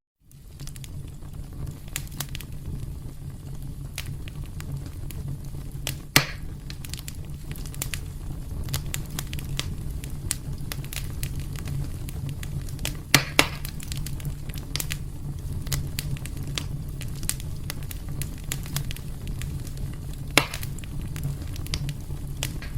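Wood fire burning in a fireplace: a steady low rumble under frequent small crackles, with louder pops about six seconds in, twice in quick succession around thirteen seconds, and once near twenty seconds. It rises in from a moment of silence at the very start.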